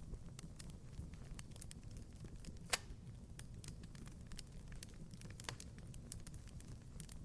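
Wood fire crackling in a fireplace: irregular small pops and snaps over a low rumble, with one sharper pop near the middle.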